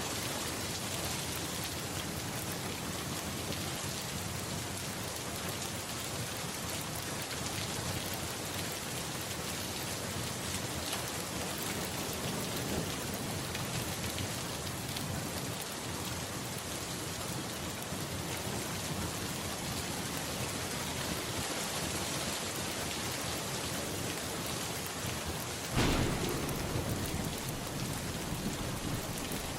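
Steady rain falling, with a sudden clap of thunder near the end that fades out over a couple of seconds.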